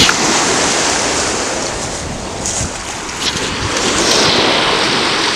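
Ocean surf washing onto the beach, with wind buffeting the microphone. The wash swells near the start and again about four seconds in.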